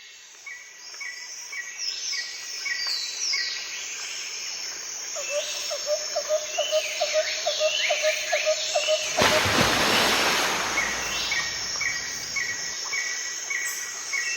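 Birdsong ambience fading in from silence: repeated evenly spaced chirps with short falling whistles over a steady hiss. A loud rushing noise cuts in briefly about two-thirds of the way through.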